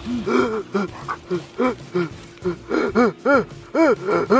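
Siberian husky whining in a run of short rising-and-falling yelps, a few a second, that stretch into longer whines near the end.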